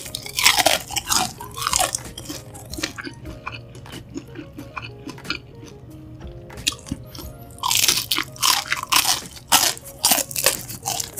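Crunching and chewing of batter-fried shrimp, with loud crisp bites at the start and again about two-thirds of the way in, and softer chewing between.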